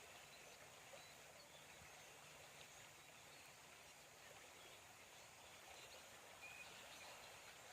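Faint, steady rush of a creek flowing, with a few brief bird chirps.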